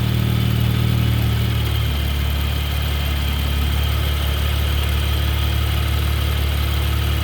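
2016 BMW M2's turbocharged 3.0-litre straight-six idling through its M Performance exhaust. About two seconds in, the idle steps down to a lower, deeper note and then holds steady.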